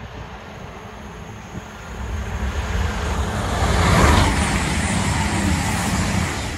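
Class 222 Meridian diesel multiple unit approaching and passing at speed, a rumble of wheels on rail over a steady low engine hum. It grows louder and is loudest about four seconds in as the front passes, then cuts off suddenly at the end.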